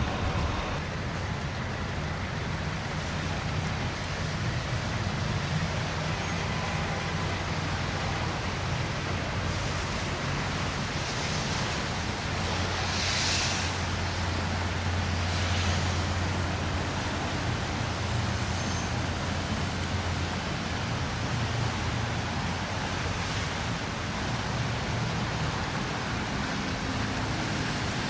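Steady city street ambience of road traffic with a constant low rumble. A few vehicles swell past and fade in the middle.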